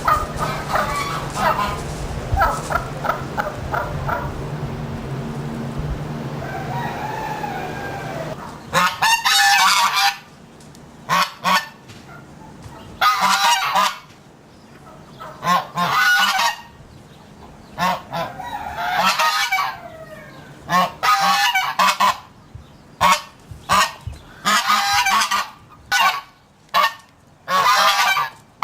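Birds giving loud, repeated calls, each lasting up to about a second, with short pauses between them; the calls start abruptly about a third of the way in. Before that, softer scattered calls sound over a steady low hum.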